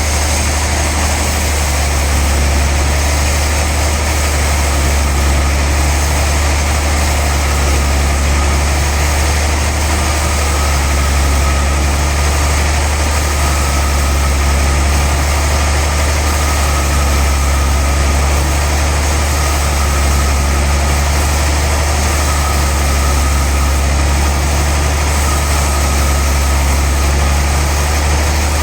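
Sawmill machinery running steadily with a loud low hum, and a faint whine coming in about ten seconds in.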